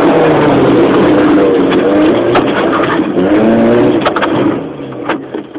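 Fiat Seicento Sporting rally car's 1.1-litre four-cylinder engine, heard from inside the cabin, running hard with its pitch rising and falling through the gears, and a few sharp clicks. About four and a half seconds in, the engine drops off and gets much quieter as the car comes off the throttle.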